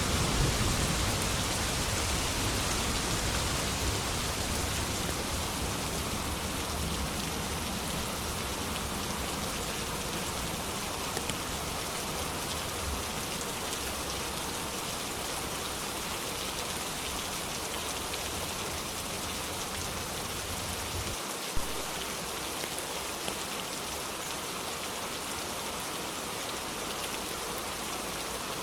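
Steady, heavy rain falling on a surface, an even hiss. A low thunder rumble dies away over the first twenty seconds or so, and one sharp tap comes about 21 seconds in.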